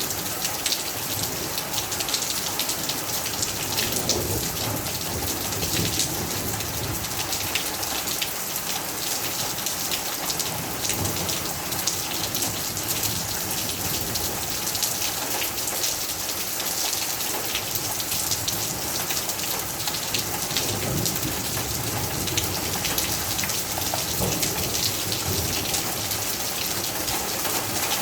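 Steady rain with a dense patter of drops striking a surface.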